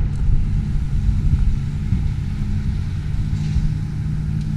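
An engine running steadily, a low drone with a few held tones over a rough rumble.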